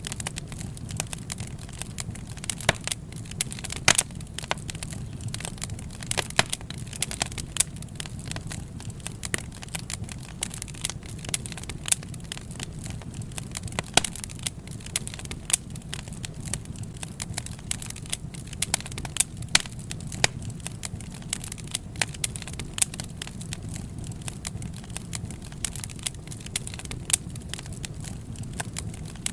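Wood fire crackling: sharp snaps and pops at irregular intervals, several a second, over a low steady rumble of the flames.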